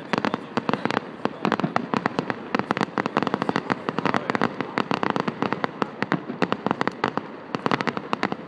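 Fireworks going off in rapid succession: a dense, continuous crackle of many sharp pops and bangs, several each second.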